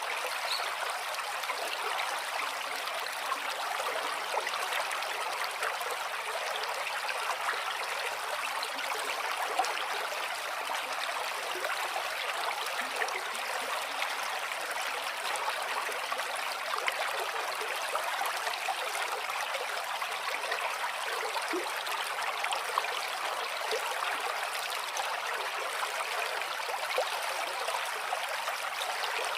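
Stream of water running steadily over stones, a constant splashing burble with small trickles and plinks.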